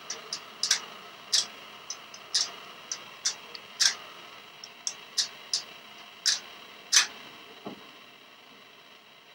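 A budgerigar tugging the small feeding door of its cage with its beak, making it clack in irregular sharp clicks, about two or three a second. The loudest comes about seven seconds in, and then the clacking stops.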